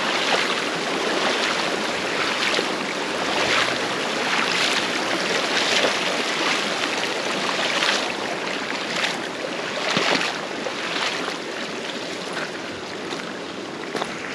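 Rushing water of a small mountain stream, a steady loud wash that swells briefly about once a second.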